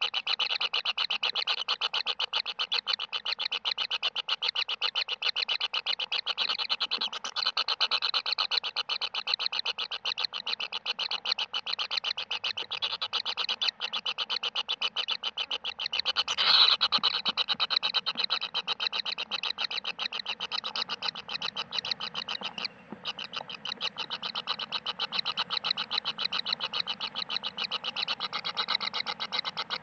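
A continuous rapid pulsing trill, many pulses a second, from a calling animal or insect, with a brief louder burst about halfway through.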